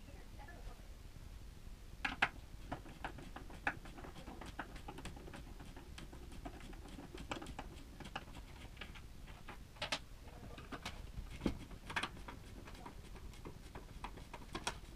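A quick, irregular run of light clicks and taps, with a few sharper knocks about two, ten and twelve seconds in.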